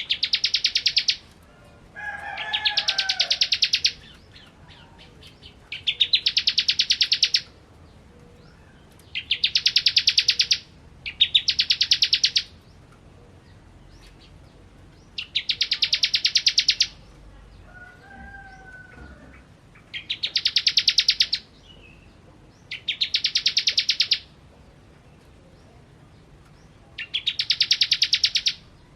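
Ciblek kristal (a prinia) singing its fast, buzzy trill in repeated phrases of one to two seconds, a few seconds apart. A fainter, lower bird call sounds twice.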